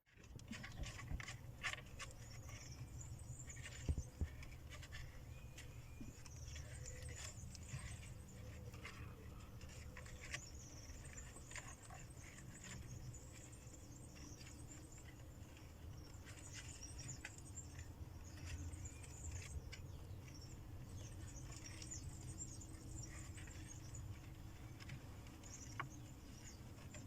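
Farmyard animal sounds: a steady stream of high, rapid chirping with scattered clicks and rustles over a low rumble.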